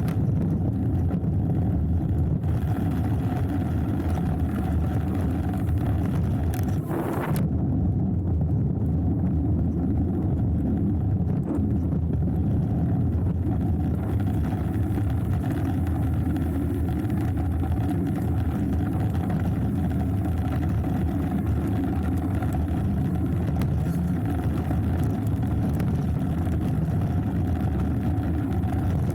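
Steady rumbling wind and trail noise on an action camera's microphone as a hardtail mountain bike rides downhill, with a brief hiss about seven seconds in.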